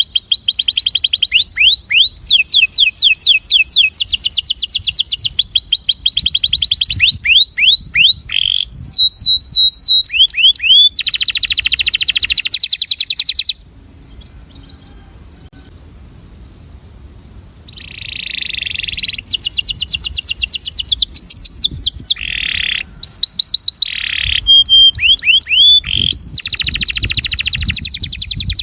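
Male domestic canary singing its courtship song: fast trills of rapidly repeated high notes, falling sweeps and buzzy rolls. The song stops for a few seconds about halfway through, then resumes with more trills.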